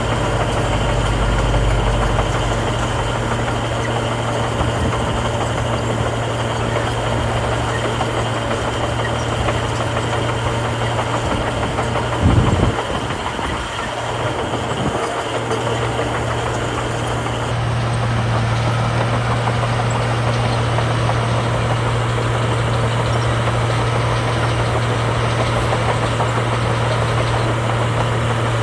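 Heavy diesel engine of earthmoving machinery running steadily with a constant low hum. A single loud thump comes a little under halfway through, and the engine gets slightly louder about two-thirds of the way in.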